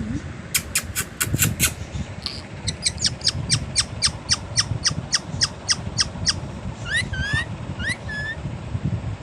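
Green parrot calling: a long run of sharp, shrill calls repeated rapidly at about five a second, then a few short rising whistles near the end.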